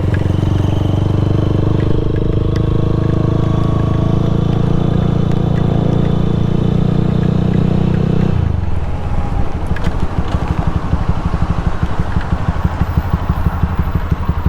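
Small motorcycle engine running at a steady speed under throttle. About eight seconds in, the throttle closes and the note drops to a lower, choppy sound.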